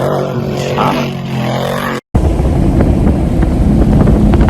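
Pickup truck engines in two edited clips: first an engine running with a steady pitched exhaust note, then, after an abrupt cut about two seconds in, a loud low rumble with a few sharp pops.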